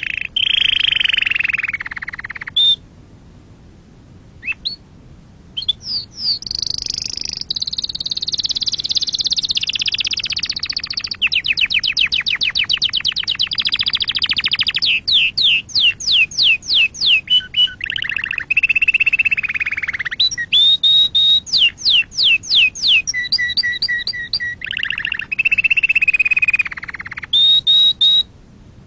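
Domestic canary singing a long, varied song: fast rolling trills, runs of rapid repeated notes and sweeping whistles, with a short pause near the start.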